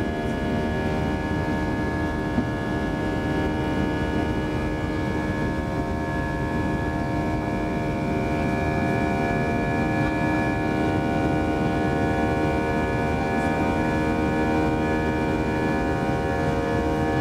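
Airbus A320 cabin noise with its IAE V2500 engines running: a steady rumble under a chord of several steady whining tones.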